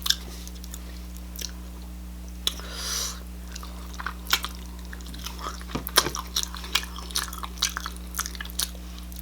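Close-miked chewing and mouth sounds: irregular wet clicks and smacks, thicker in the second half, with a brief hiss about three seconds in, over a steady low hum.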